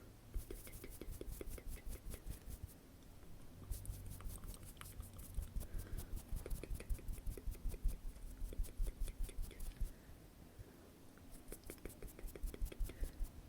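Close-miked ASMR trigger sounds: rapid light clicks and taps, several a second, in runs that ease off for a couple of seconds near the end before picking up again.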